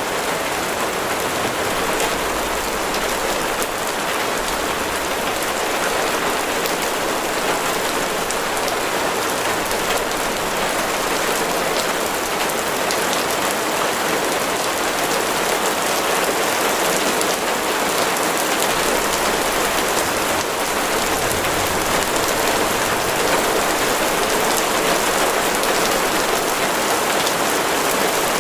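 Steady heavy rain falling on a surface, a dense patter of many drops with no letting up.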